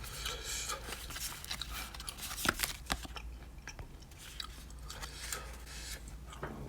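A person chewing ghost pepper beef jerky with the mouth close to the microphone: irregular wet crunches and small clicks, one sharper click about two and a half seconds in.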